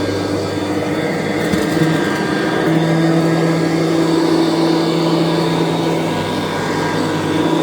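Kirby Classic III upright vacuum cleaner running steadily. Its hum steps up in pitch about three seconds in and drops back near the end.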